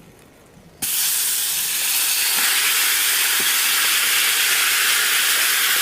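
Marinated chicken pieces frying in hot olive oil and butter: a loud, steady sizzle that starts suddenly about a second in as the chicken goes into the pan.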